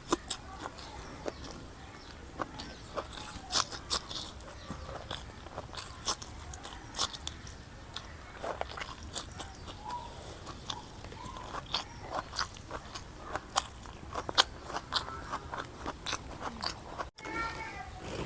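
Close-miked sounds of a person eating: chewing with irregular wet clicks, smacks and crunchy bites.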